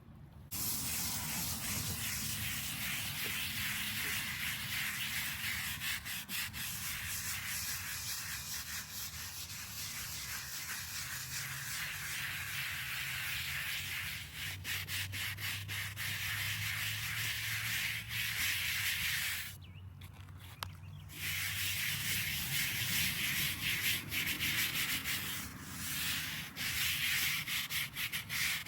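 Steady abrasive rubbing on a headstone's surface during restoration, with a brief pause about two-thirds of the way through.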